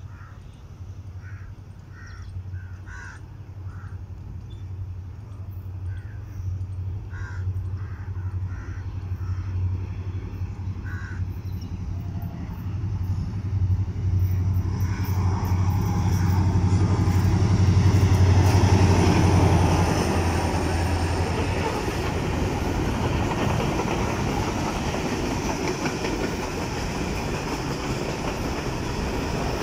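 A freight train's diesel locomotive approaches with its engine drone growing steadily louder, passes at speed about two-thirds of the way through, and is followed by the steady rumble and rattle of a long rake of freight wagons rolling past. Crows caw several times in the first part, before the train gets loud.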